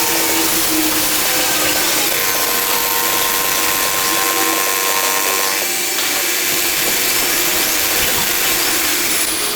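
A power tool running steadily while machining metal, with a continuous motor tone that shifts slightly about six seconds in.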